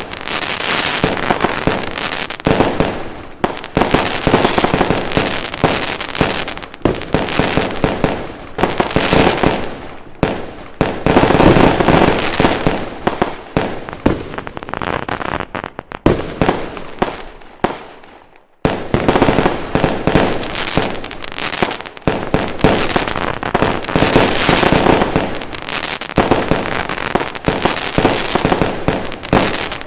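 Fireworks going off in a dense, continuous barrage of bangs and crackling, with a brief lull about two thirds of the way through before it starts again.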